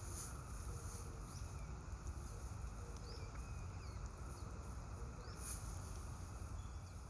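Outdoor ambience: a steady low rumble, with a few faint, short, high bird chirps scattered through it.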